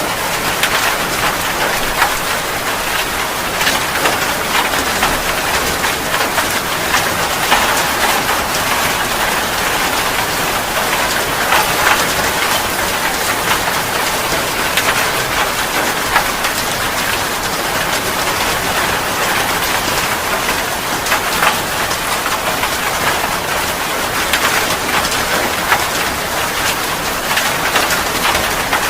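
Steady heavy rain falling and pattering on surfaces, a dense even hiss full of small drop impacts.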